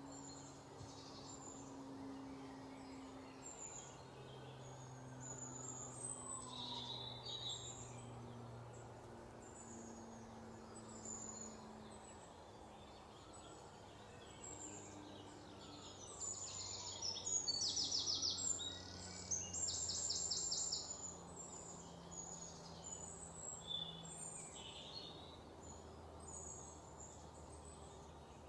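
Small songbirds chirping and twittering, with a louder run of quick trills about two-thirds of the way through.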